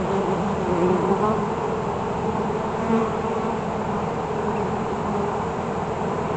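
Swarm of honeybees from an opened hive buzzing in a steady, dense hum, the pitch of many wingbeats wavering over one another.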